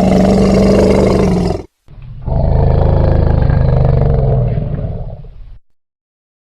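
Elephant calls: a loud call held at a steady pitch that cuts off abruptly after about a second and a half, then a longer, lower-pitched call that dies away about a second before the end.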